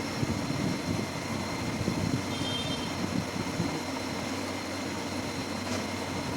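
Small battery-powered DC motor spinning a propeller fan, a steady whir with a faint high whine.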